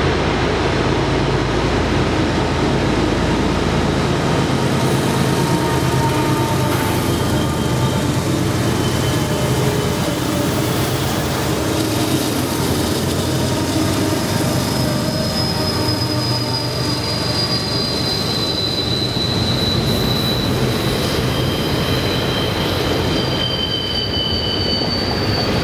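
Union Pacific diesel locomotives pass close by, engines working hard under load with a heavy exhaust blast. From a little past halfway, double-stack intermodal cars roll by with their steel wheels squealing in high steady tones on the curve.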